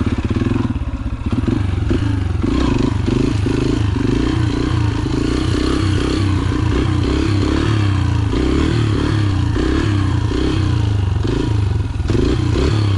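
Yamaha TT-R125's single-cylinder four-stroke engine running while being ridden, its revs rising and falling again and again as the throttle is opened and closed.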